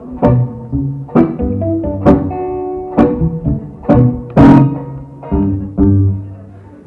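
Guitar strumming chords over low bass notes, about one strum a second, in the closing bars of a live song; the last chord dies away near the end.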